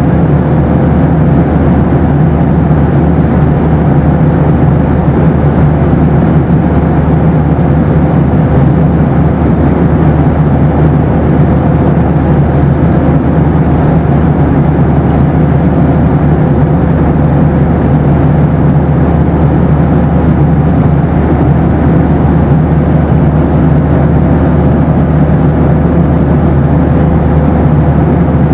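Boeing 737 in flight, its steady cabin noise: an even, unchanging rush of air and engine noise weighted to the low range, with a thin steady tone above it.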